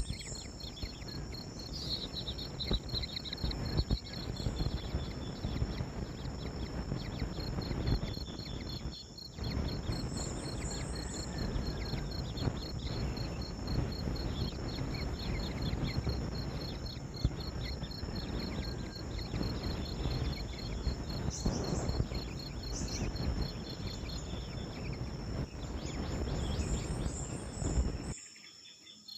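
Insects chirping steadily in high pulsed tones under a loud, rough, rustling noise that cuts off abruptly near the end.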